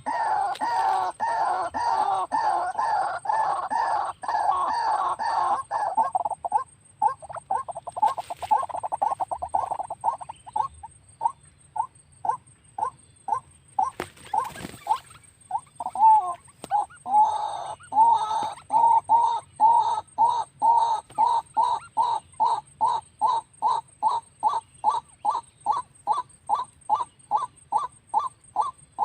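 White-breasted waterhen calling. A dense, overlapping run of croaking calls gives way to a rapid series of short pulses, then to an even series of about two calls a second.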